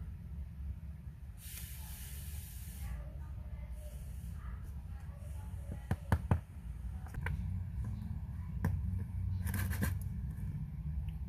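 Small metal clicks and taps of watch-repair tools, with two short hisses of air or spray, one of them lasting over a second, over a steady low hum.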